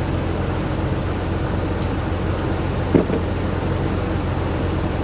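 Jeep Liberty's six-cylinder engine idling steadily with a low hum, running evenly now that the ignition coil has been replaced and the misfire cleared. A single short knock about three seconds in.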